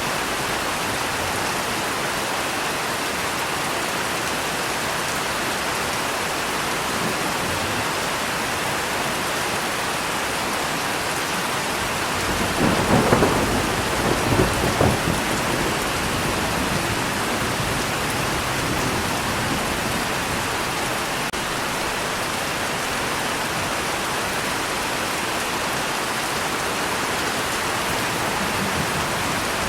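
Steady rain falling, with a clap of thunder about halfway through: a few seconds of cracking, rolling rumble over the rain.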